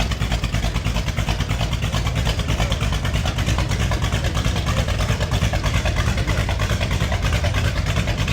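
Car engine idling with a fast, uneven pulse.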